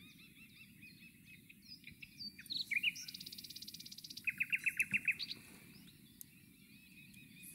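Several songbirds singing and chirping, with a fast buzzy trill about three seconds in followed by a run of about seven loud, clear repeated notes.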